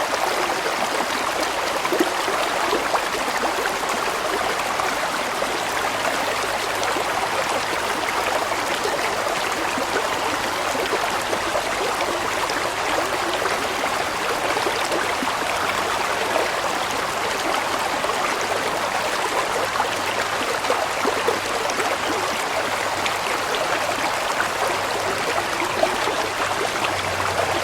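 Water flowing steadily in a stream: an even rush with many small splashes.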